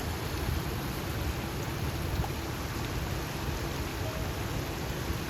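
Floodwater rushing steadily, a constant noisy hiss with a deep rumble underneath.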